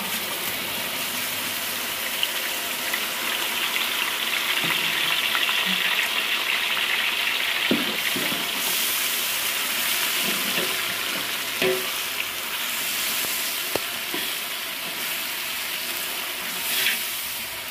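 Garlic-ginger paste dropped into hot oil and fried onions in a large aluminium pot, starting a loud sizzle at once that keeps on steadily. A metal spoon stirring it knocks against the pot now and then.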